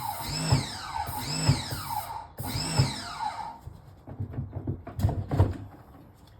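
A repeating electronic tune of gliding tones, one phrase about every second, that stops about three and a half seconds in. It is followed by a short run of knocks and clatter.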